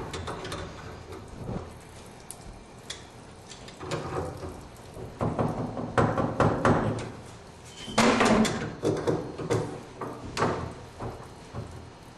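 Wrenches working the union nuts on an old tub and shower valve's copper supply lines: irregular metal clanks, knocks and scraping as the unions are loosened, in clusters with short pauses between.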